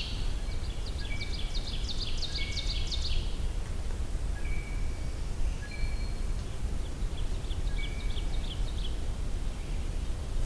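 Woodland songbirds calling: two bouts of rapid high chips, each about three seconds long, one early and one after the middle, with short whistled notes scattered between them, over a steady low rumble of background noise.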